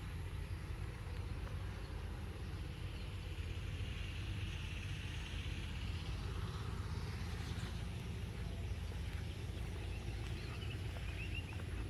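Steady low outdoor rumble, with faint short bird chirps near the end.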